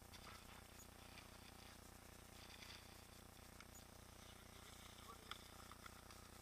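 Near silence, with faint scattered clicks and rustles over a low steady hum.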